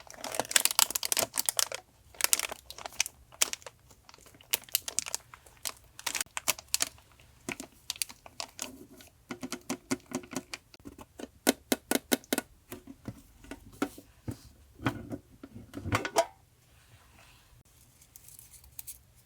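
Paper and packaging handled close to the microphone: rustling, crinkling and tearing in quick runs of crisp crackles, dying down to faint rustles for the last few seconds.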